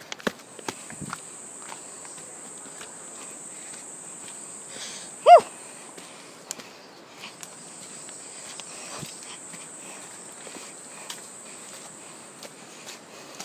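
Steady high-pitched drone of insects that drops out briefly twice, over scattered clicks and rustles of footsteps through undergrowth.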